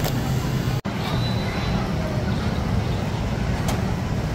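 Steady low rumble of road vehicle noise, with a brief dropout just under a second in.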